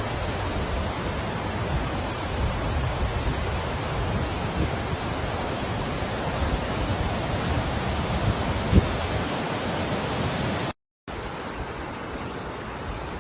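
Steady rushing noise with no tone or rhythm, with a single dull thump about nine seconds in; it cuts out for a moment about eleven seconds in and comes back quieter.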